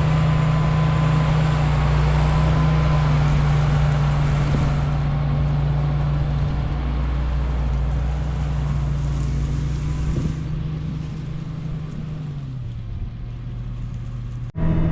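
Farm tractor's diesel engine running steadily under load; about twelve seconds in its pitch drops as it throttles down, and the sound breaks off abruptly near the end.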